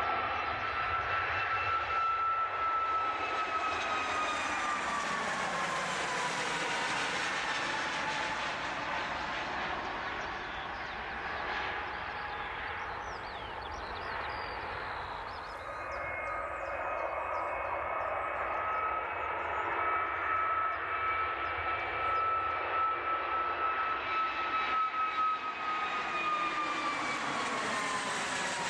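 Airplane engines passing close by: a steady whine that drops in pitch as the aircraft goes past about five seconds in. After an abrupt change near the middle, a second pass builds, and its whine drops again near the end.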